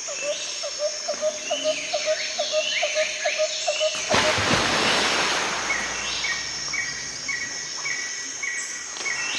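Tropical forest ambience: birds calling and insects, with a steady run of short chirps about four a second. About four seconds in it changes abruptly to a denser hiss with a higher chirp repeating about twice a second.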